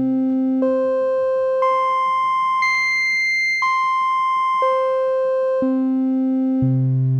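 A series of synthesized musical tones played one at a time, each about a second long, stepping up in pitch from a low note to a high one and then stepping back down. It demonstrates how faster vibration gives a higher pitch.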